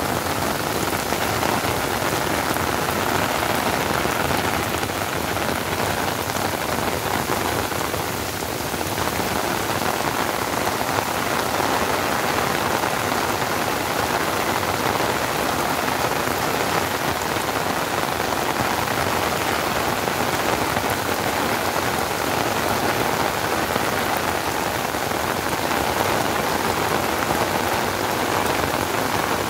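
Heavy monsoon rain pouring onto flooded fields and standing water: a dense, steady hiss that does not let up.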